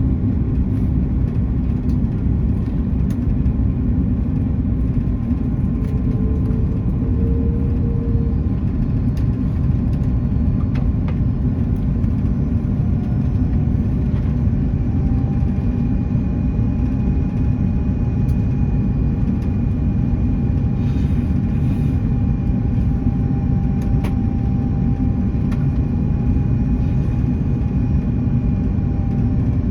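Steady, low rumble of an Airbus A330's cabin noise, engines and rushing air heard from inside the passenger cabin during the approach. Faint steady whines sit over it from about halfway through.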